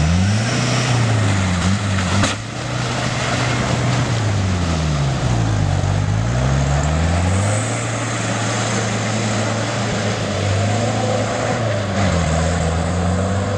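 Off-road 4x4 engines revving as they drive through deep mud, the pitch rising and falling with the throttle, two engines at once at times. A single sharp knock about two seconds in.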